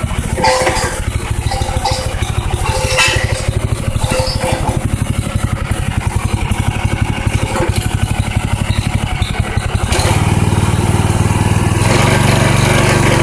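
Robin engine on a plate compactor running at low speed with a rapid, even beat, then speeding up about ten seconds in and growing louder again near the end.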